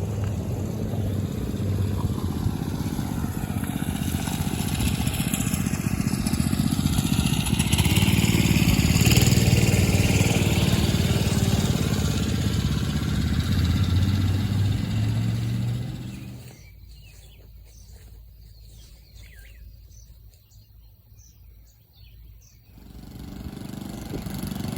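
A small minibike engine runs past, building to its loudest about nine seconds in and then easing off. It cuts out suddenly to a quiet stretch with birds chirping, and an engine comes back in near the end.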